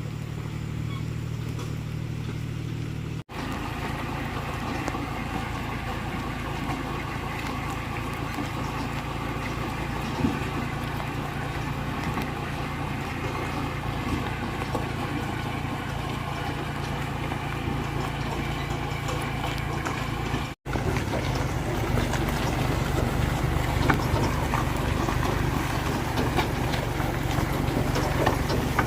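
Engine running steadily, broken by two brief drop-outs, about three seconds in and about two-thirds of the way through; after the second it is louder, with more clatter.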